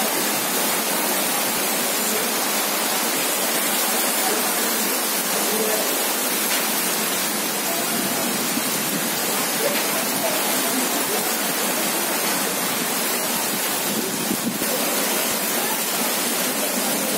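Heavy rain pouring down steadily: a dense, even hiss of drops splashing onto wet, puddled ground.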